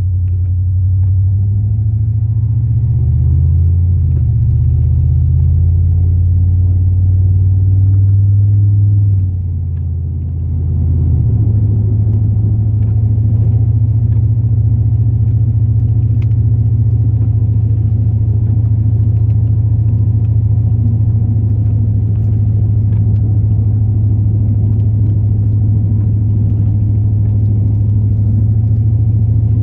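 Chevrolet Silverado plow truck's 8.1-litre big-block V8 gas engine running as the truck drives, a low drone. Its pitch rises and falls during the first ten seconds, drops off briefly about ten seconds in, then holds steady.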